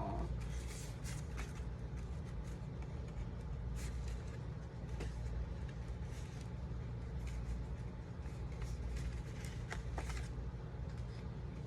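Cardstock being cut and handled: irregular crisp rustles and clicks of paper, over a steady low hum.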